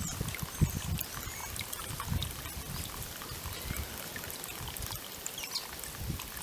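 Water trickling in a bird-bath fountain, with small splashes and knocks as birds bathe, and faint high bird chirps now and then.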